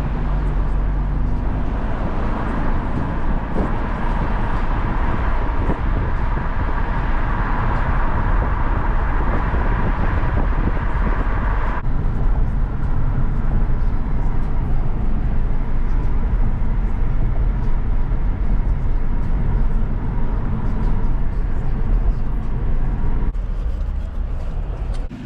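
Car driving: a steady engine and road rumble, with the sound changing abruptly about halfway and again near the end.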